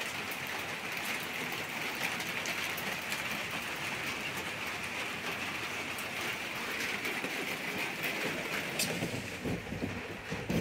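Heavy rain falling steadily: an even hiss with many small drops pattering.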